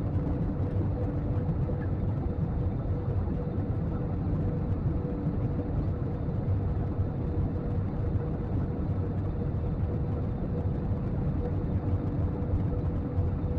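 Steady cabin noise inside a jet airliner in flight: an even drone of engines and airflow with a faint steady hum.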